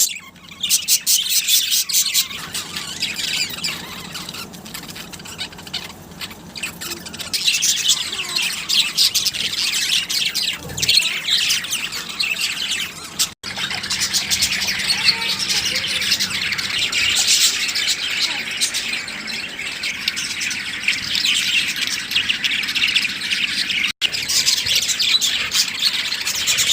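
Budgerigars chattering: a dense, continuous run of fast high-pitched warbles, chirps and squawks.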